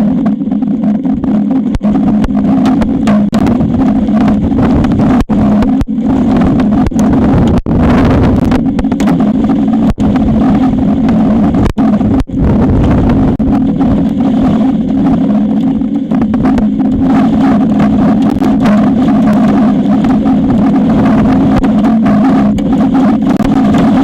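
Strong wind buffeting an outdoor nest-camera microphone: a loud, steady rush with a low drone, broken by a few brief dropouts in the first half.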